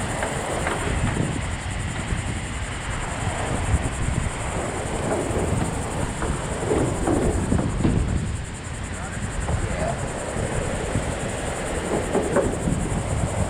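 Wind rumbling on the microphone, with scattered knocks and scrapes as a small aluminum boat is shifted and slid into a pickup truck's bed, one sharp knock about four seconds in. A steady high insect buzz runs underneath.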